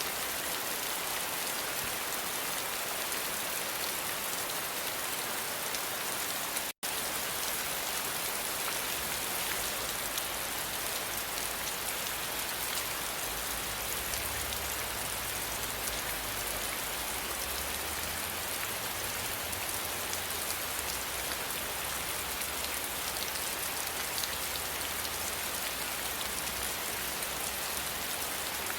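Steady rain falling on a surface, a dense even patter. It cuts out completely for a split second about seven seconds in, and a low rumble sits underneath from about nine seconds on.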